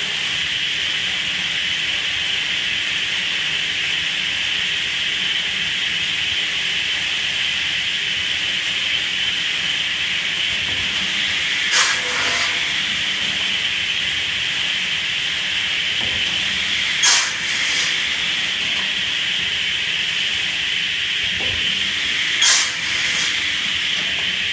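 Chainsaw log-cutting machine with an automatic pusher running its cutting cycle: a steady high hiss throughout, broken by three short, loud bursts about five seconds apart.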